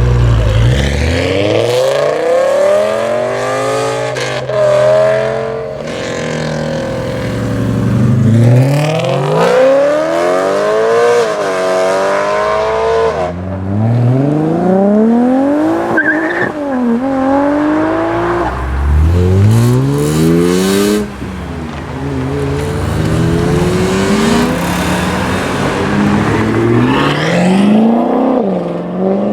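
Modified BMW M cars accelerating hard one after another, each engine climbing in pitch, dropping back at the upshift and climbing again.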